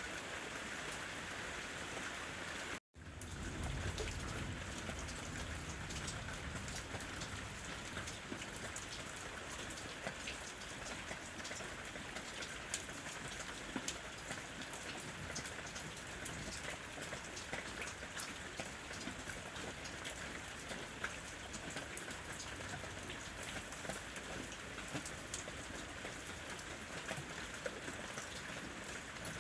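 Steady rain falling on a house roof: a dense, even hiss with scattered sharper drop taps. About three seconds in, the sound cuts out completely for a split second, then resumes.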